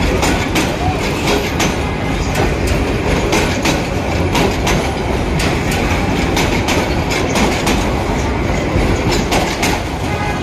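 Passenger train coaches passing close by at speed, a steady heavy rumble with the wheels clicking rapidly and unevenly over the rail joints.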